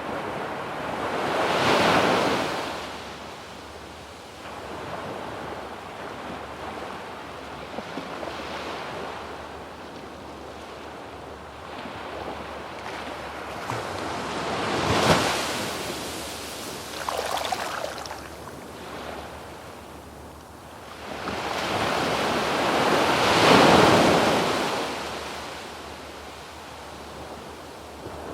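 Waves breaking and washing up a sandy beach. Two large waves break at about 2 seconds and about 23 seconds, with a sharper, smaller break in the middle. A low wash of surf runs between them.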